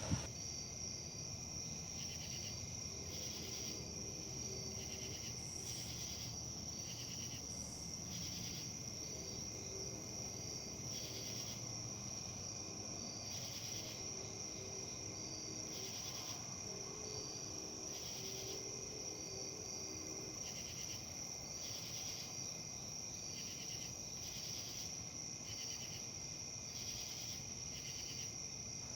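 Crickets trilling in a steady high-pitched chorus, with other insect chirps pulsing roughly once a second over a soft outdoor background.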